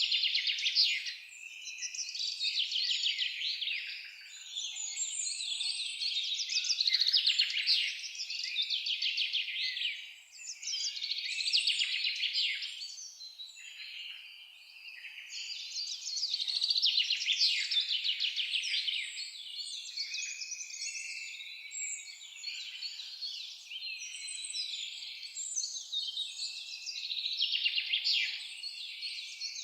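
A chorus of songbirds singing over one another in rapid trills and chirps, swelling and easing every few seconds.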